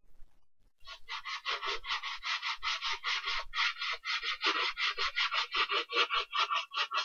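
Rapid back-and-forth scrubbing strokes on a sneaker, about five a second, starting about a second in and keeping an even rhythm.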